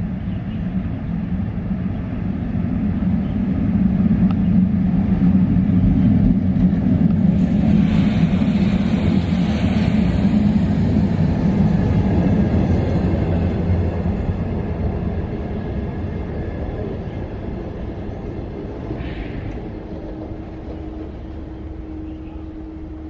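Green-skinned slow passenger train on the Chengdu–Kunming railway pulling into the station, a heavy rumble of wheels on rails. It builds to its loudest about a quarter of the way in, then slowly dies down as the train slows.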